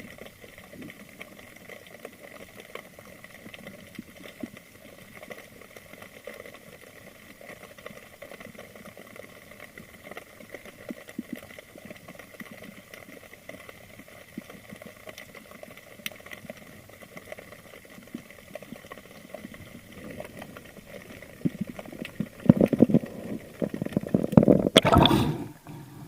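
Underwater ambience: a low, steady hiss with scattered faint ticks. From about 22 seconds in come loud, irregular bursts of bubbling and rushing water.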